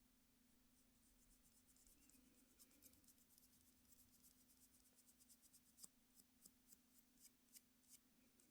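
Faint, quick scratching and ticking of small hand tools being worked at close range, several light ticks a second from about a second and a half in, over a steady low hum.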